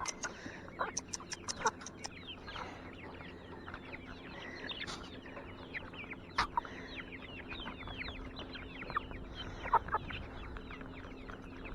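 A flock of chickens clucking and peeping, with many short, falling chirps overlapping throughout and a few sharp taps among them.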